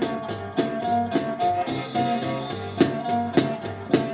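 Rock song with electric guitar, bass and a steady drum beat of sharp strikes about three a second, without vocals.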